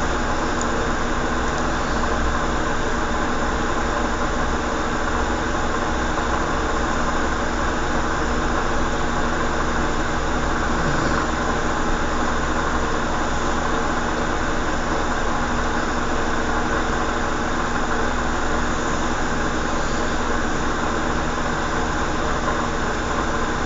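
Steady mechanical hum and hiss with several fixed tones, unchanging throughout.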